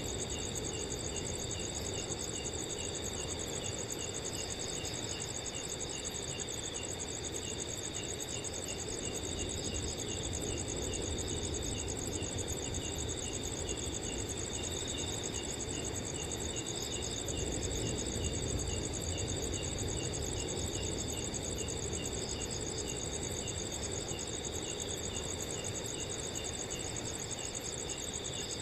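Several crickets chirping and trilling at once at different pitches, one a continuous high trill and another repeating quick chirps, over a low rush of wind that swells slightly about two-thirds of the way through.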